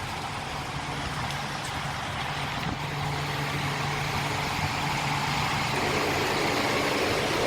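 Semi-truck diesel engine idling, a steady low hum that grows gradually louder.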